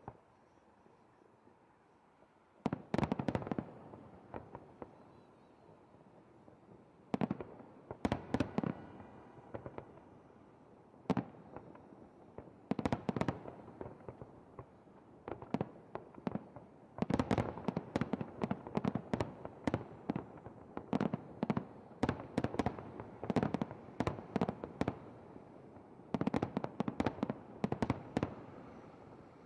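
Aerial fireworks shells bursting in clusters of sharp bangs, each cluster trailing off in a rolling echo. The bangs start a few seconds in and come almost without pause in the second half.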